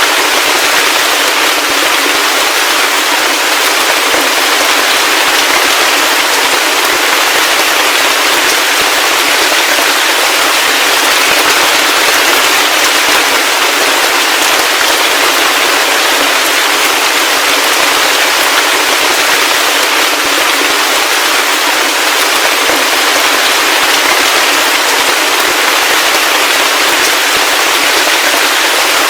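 Heavy rain falling steadily: a dense, even hiss of countless drops, with no thunder and almost no low end.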